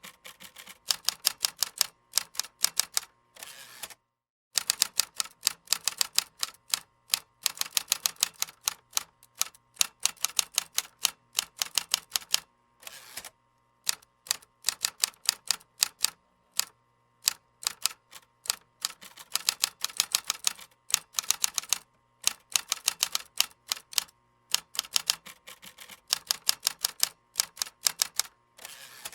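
Typing on a computer keyboard: fast runs of key clicks, broken by short pauses every few seconds.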